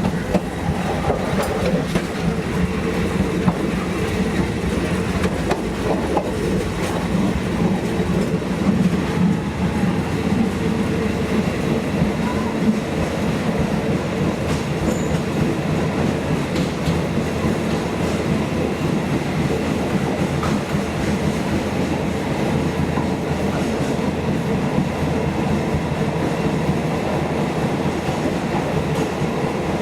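State Railway of Thailand passenger train running along the line, heard from aboard: a steady rumble of wheels on rail with a low drone and repeated clicks from the rail joints.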